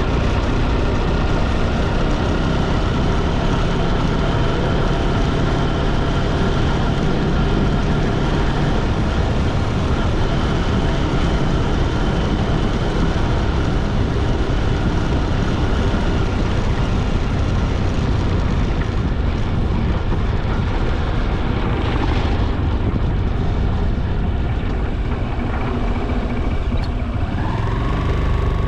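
Motorcycle riding along a road: steady engine drone mixed with heavy wind rumble on the mic. A short sharper noise comes about three-quarters of the way through, and a brief rising tone near the end.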